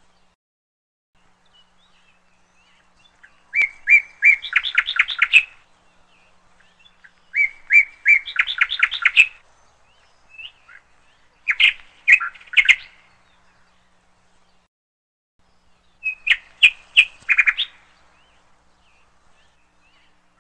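A songbird singing in four repeated phrases, each a quick run of sharp, bright notes lasting one to two seconds, with a few seconds of quiet between phrases.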